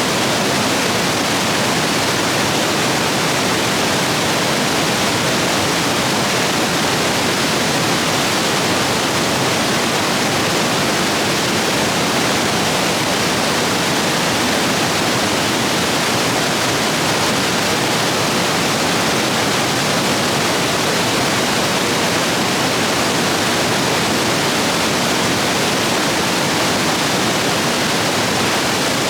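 Rapids in a rain-swollen stream rushing over rocks: a steady, loud, unbroken roar of whitewater.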